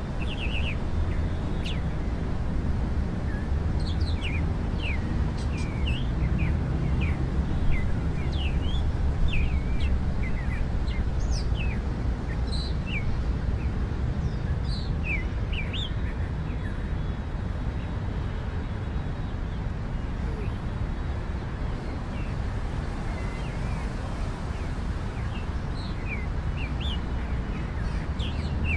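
Small birds chirping in short, quick calls, scattered throughout, over a steady low rumble.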